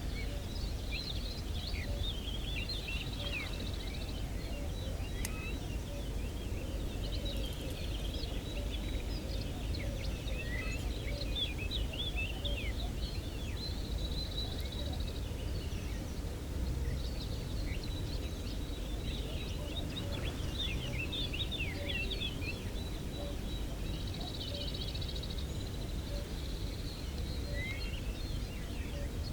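Small birds chirping and singing in many short high notes throughout, with a few longer buzzy trills, over a steady low rumble of outdoor background noise.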